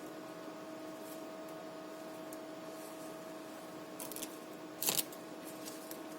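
LPKF ProtoMat S63 circuit-board drilling and milling machine running with a steady hum, with a few brief scratchy noises about four seconds in and a louder short burst just before five seconds.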